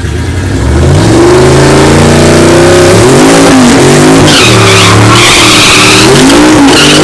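Turbocharged street truck's engine revving hard, its pitch climbing and falling several times, with tires squealing.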